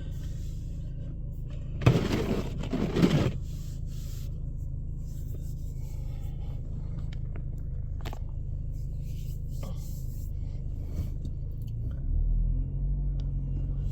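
Car engine running, heard as a steady low hum from inside the cabin. A loud scraping rustle comes about two seconds in and lasts about a second. The engine gets louder near the end as the car pulls away.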